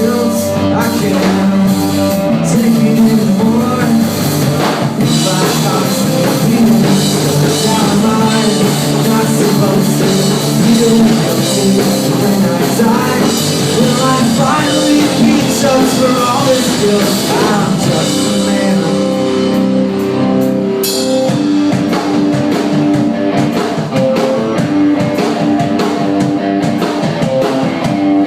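Rock band playing live, with drum kit and guitar, at a steady loud level.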